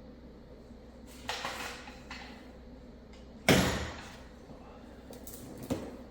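Three separate clanks of metal tools or parts being handled, the loudest about halfway through.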